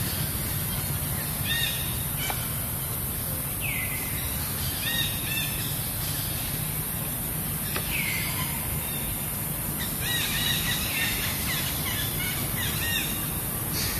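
Birds chirping: short high calls in quick clusters, with a couple of longer falling calls, over a steady low rumble and a high hiss.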